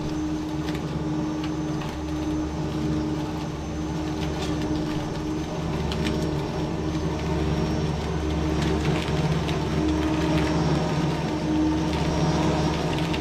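Flymo electric hover mower running steadily as it cuts overgrown grass: a constant motor-and-fan hum with scattered ticks.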